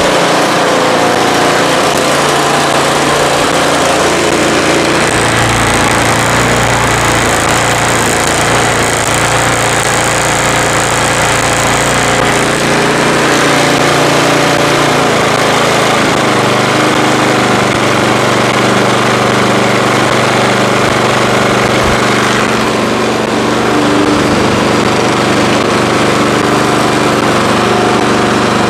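Craftsman two-stage snowblower's gasoline engine running steadily after being brought back from seized, its speed shifting a few times.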